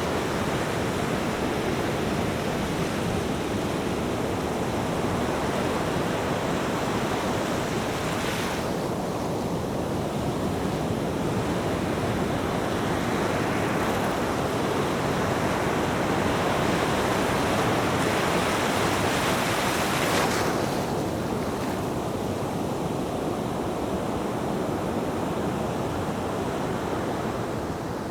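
Ocean surf: a continuous rush of waves breaking and washing in, swelling and easing without pause, with the hiss at the top of the sound thinning out twice.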